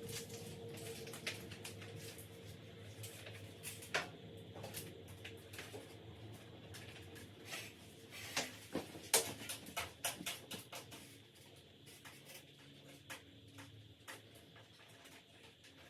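Irregular light clicks and knocks from objects being handled in a small room, busiest about eight to eleven seconds in, over a low steady hum.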